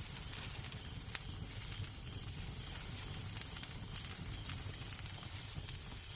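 Fireplace crackling: a steady low rumble and hiss of burning wood with scattered sharp pops and snaps, one louder pop about a second in.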